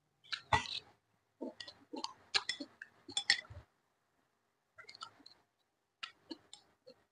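A person chewing soft cooked vegetables with wet mouth sounds, in short bursts with a pause of about a second midway, along with light clicks of wooden chopsticks.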